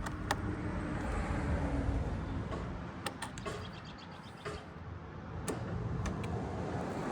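Hand work on a riding mower's filters: scraping and rubbing as a filter is worked into place, with a few sharp clicks.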